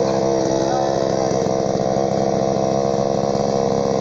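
A motor running steadily at an even speed, with a constant hum.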